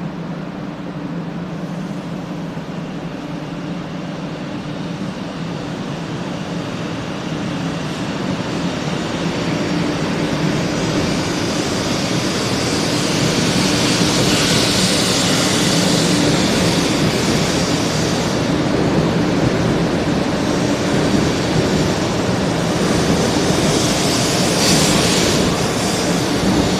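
A 500-series Shinkansen train pulling out of a station, passing close by along the platform. A steady low hum at first, then the rushing and rolling noise of the cars grows louder over the second half as the train gathers speed.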